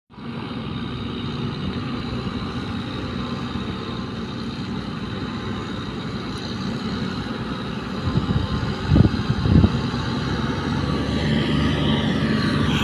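Heavy engines of a tractor and a sugarcane truck running steadily under load, with a few loud thumps around nine to ten seconds in and the engine noise building near the end.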